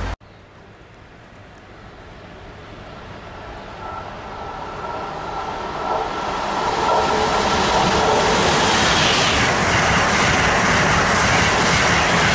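Amtrak Acela Express electric trainset approaching and passing close at speed. A rushing rail noise grows steadily over the first seven seconds, then holds loud as the cars go by.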